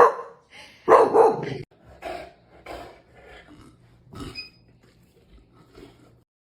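A dog barking: two loud barks, at the start and about a second in, followed by a run of quieter barks that fade and stop just before the end.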